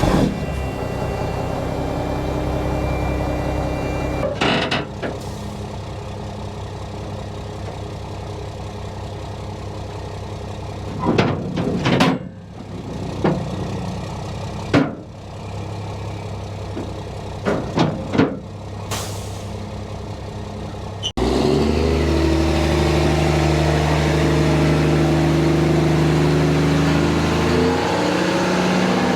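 A Mack truck's diesel engine idling steadily, with scattered knocks and clunks. About two-thirds of the way through, the sound cuts abruptly to the engine running louder, its pitch rising and falling.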